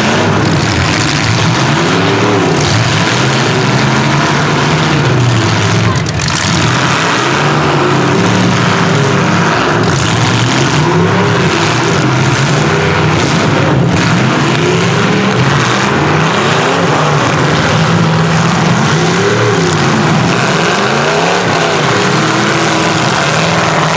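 Engines of several small trucks, vans and SUVs revving up and down, overlapping, during a demolition derby heat, with a couple of sharp crashes between them.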